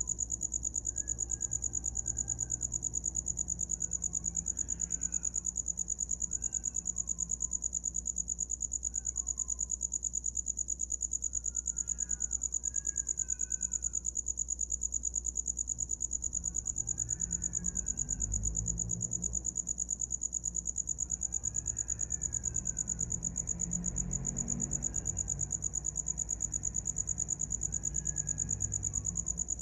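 A cricket singing one continuous, high-pitched, fast-pulsing trill.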